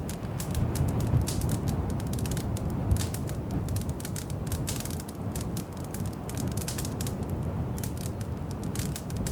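Wood fire crackling in a fireplace: a dense, irregular run of small pops and snaps over the low, steady rumble of the flames.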